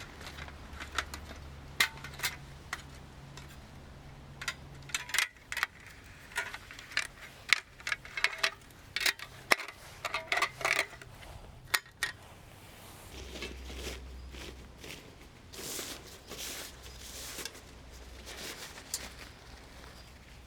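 Metal camp cookware and utensils being handled: a series of sharp clinks, taps and knocks, some with a short metallic ring. It is busiest in the first half and sparser toward the end.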